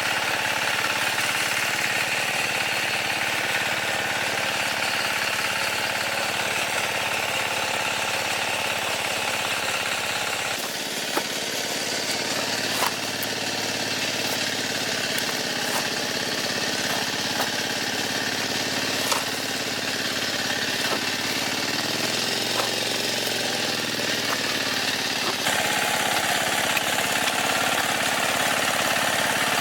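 Engine of a pond-digging farm machine running steadily. About ten seconds in its sound changes, and scattered knocks and clunks come through the middle stretch, with a brief rise and fall in engine pitch before the earlier sound returns near the end.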